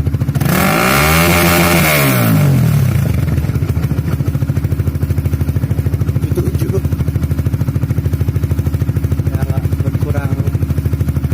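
Honda Supra GTR 150's single-cylinder four-stroke engine running through a Proliner aftermarket exhaust with its dB killer fitted. It is revved once about half a second in, the pitch rising and falling back over about two seconds, then idles steadily with an even, rapid putter.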